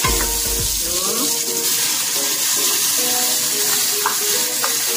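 Sliced shallots, garlic and onion sizzling in hot oil in an aluminium pot, with a wooden spatula stirring and knocking against the pot bottom in the first second. Near the end, blended spice paste is tipped in from a blender jar.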